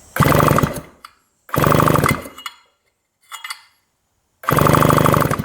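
1975 Yamaha RD200's electric starter spinning the two-stroke twin over in four bursts, three of about a second and one short one, with a fast even pulse. The engine does not fire: there is no spark, even with a new spark plug.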